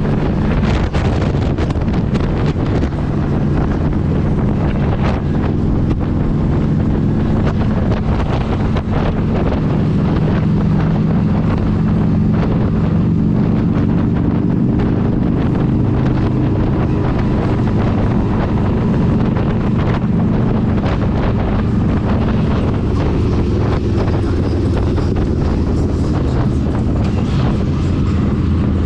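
Yamaha FJR1300's inline-four engine running at a steady cruise, with heavy wind buffeting on the microphone from riding speed.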